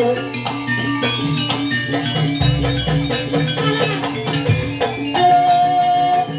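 Jaranan dance music: a gamelan-style ensemble of tuned gongs and metallophones playing a repeating pattern over hand drums, with one long held high note near the end.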